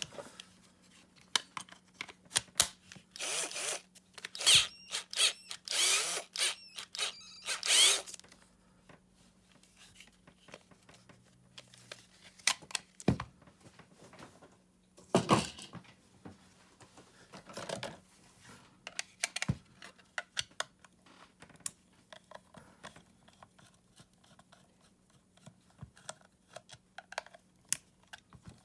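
Hands working on a Makita cordless screwdriver and its battery pack: scattered sharp clicks and several short scraping, rasping bursts, thickest in the first several seconds.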